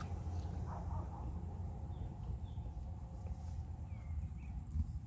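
A few faint, short bird chirps, one a small gliding note about four seconds in, over a steady low rumble.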